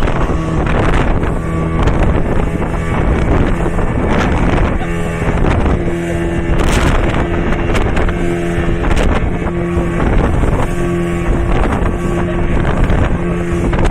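Motorboat engine running under way, its low hum wavering in strength every second or so, with wind buffeting the microphone.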